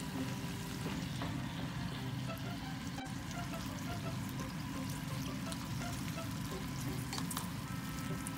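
Sauce poured into a hot frying pan of squid and red paprika near the start, then the food sizzles steadily as it is stir-fried over high heat and turned with tongs. Soft background music plays underneath.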